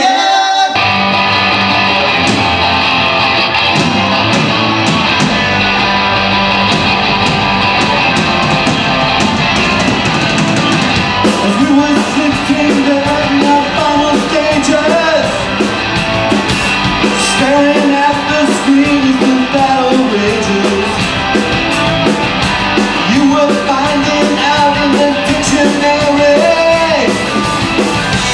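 Rock band playing an instrumental passage with guitar and drums. The sound grows fuller and brighter about eleven seconds in.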